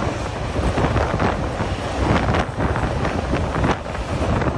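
Wind rushing over the microphone, held out of a moving passenger train, over the train's running rumble and irregular clatter.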